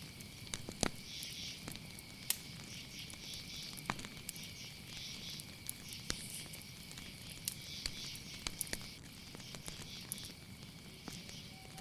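Night insects calling: a steady high trill with rising and falling pulses of chirping above it, and scattered sharp clicks and crackles throughout.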